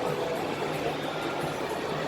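The Dubai Mall's indoor waterfall, water cascading down its multi-storey face with a steady rushing noise.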